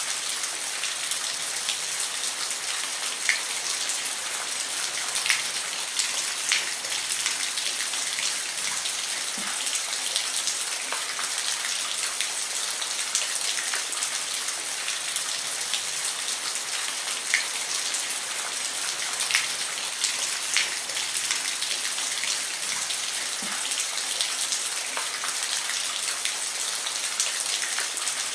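Steady rain falling on a roof: an even hiss with single drops ticking loudly here and there.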